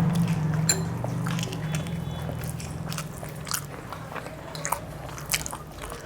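Close-up mouth sounds of someone chewing a mouthful of masala Maggi noodles, with scattered sharp clicks.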